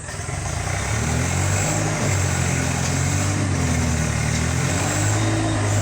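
Swaraj tractor's diesel engine running, growing louder over the first second, then holding steady while its pitch drifts slightly up and down.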